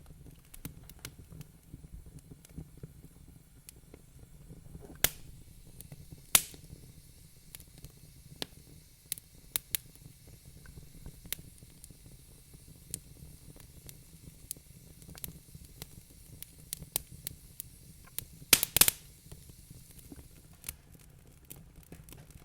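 Wood fire crackling in a fireplace: irregular sharp pops and snaps over a low rumble, with the loudest pops about five and six seconds in and a quick cluster a few seconds before the end.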